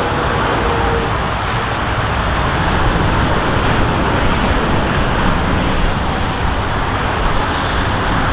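Steady jet engine noise from a Lufthansa Cargo Boeing 777F's twin GE90 turbofans: an even, continuous rush with a faint thin whine that fades about a second in.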